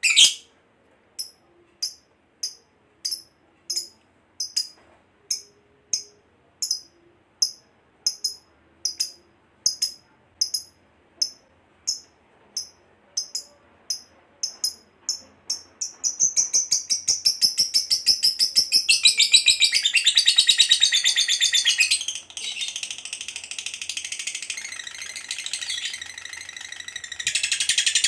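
Lovebird calling: sharp high chirps evenly spaced at nearly two a second, then from about halfway through a long, rapid, continuous chattering trill with one short break. This is the long 'ngekek' chatter prized in contest lovebirds.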